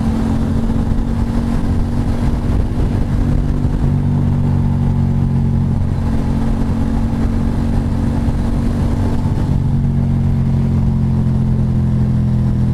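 Motorcycle engine running on the road, its note dropping about four seconds in and then holding steady at the lower pitch.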